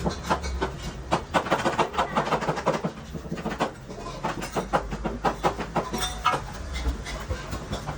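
Cooking utensils clattering at a street food stall: a quick run of sharp knocks and clicks, several a second, thinning out after about four seconds.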